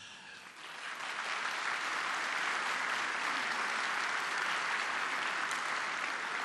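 An audience applauding, swelling over the first second and then holding steady.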